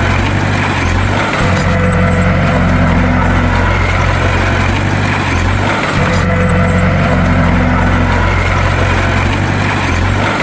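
Bulldozer's diesel engine running steadily with a deep drone, its sound pattern recurring about every four seconds.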